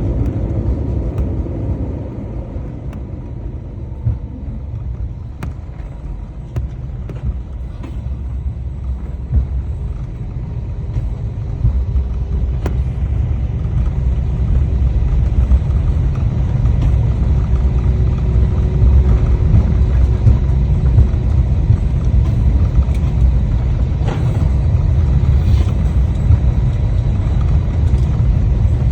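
Airliner cabin noise during landing: a steady low rumble that grows louder about 12 seconds in and stays loud.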